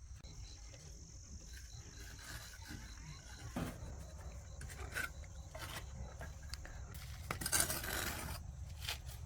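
Steady high insect drone over a low rumble, with a few sharp knocks and a louder scraping rustle about seven and a half seconds in.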